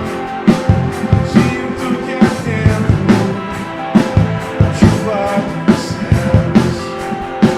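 Live church worship band playing a rock-style passage: drums hit a steady beat, about two hits a second, under sustained chords.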